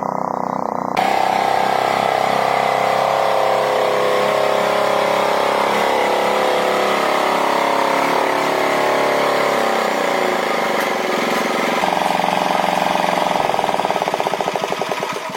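Tractor engine running, its pitch slowly drifting down and up with engine speed, with abrupt changes in the sound about a second in and again near twelve seconds.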